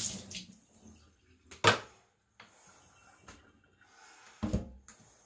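Running kitchen tap cutting off, followed by scattered clicks and handling knocks: a sharp knock about a second and a half in and a duller thump near the end.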